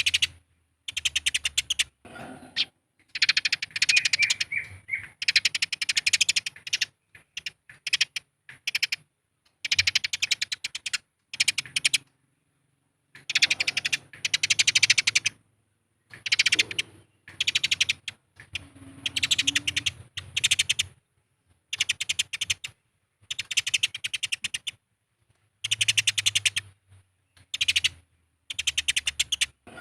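Eurasian tree sparrows chattering in fast, dense bursts of squabbling calls, each burst a second or two long with short pauses between.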